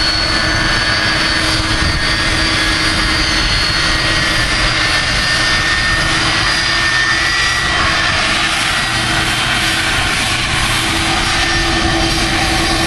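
Boeing 747's four jet engines at high take-off thrust, heard from directly behind: loud, steady jet blast noise with a thin, steady engine whine over it.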